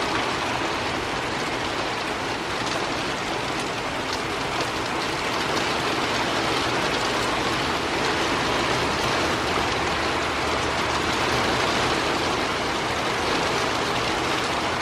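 Heavy thunderstorm rain pouring down in a steady, loud hiss.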